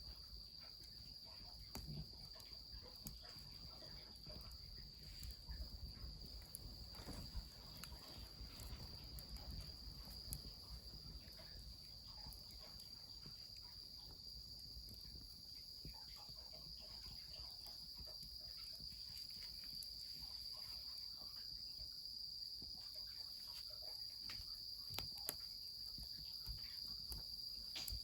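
Insects trilling steadily at a high pitch, over a wood fire's occasional sharp crackles and a low steady wash of running mountain water.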